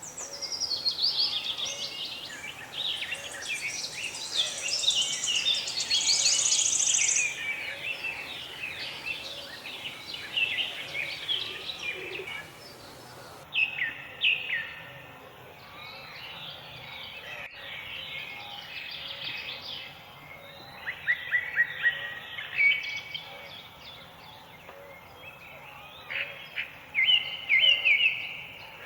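Several small songbirds chirping and trilling, their calls overlapping, over a faint steady background hiss.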